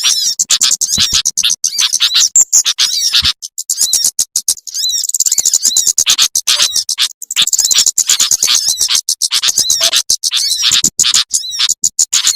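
Bird-lure recording of small-bird calls, sunbirds among them: a fast, dense stream of high chirps and twitters, broken by many brief gaps.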